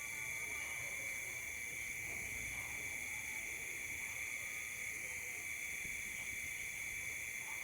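Steady chorus of night insects, several unbroken high-pitched trilling tones layered together without a break.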